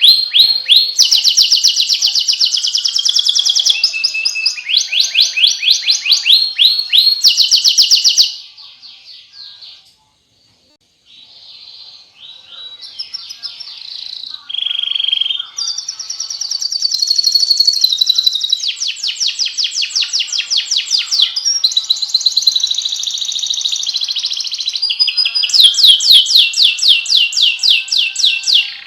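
Domestic canary singing: long phrases of very fast repeated trill notes, each phrase at its own pitch, changing every second or two. About eight seconds in the song drops to a soft, quiet passage for a few seconds, then builds back up to loud, fast trills.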